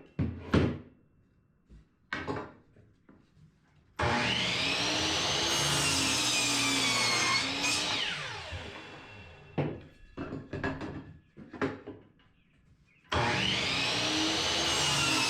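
Compound miter saw making two short cuts through wood: the motor starts with a sudden whine about four seconds in, its pitch sagging as the blade bites into the board, then winds down, and a second cut starts near the end. Between the cuts there are light knocks and clatter of the wood being handled.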